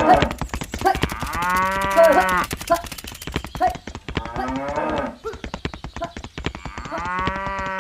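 Cow mooing: long drawn-out moos, one about a second in and another near the end, with a dense rapid clicking rattle underneath.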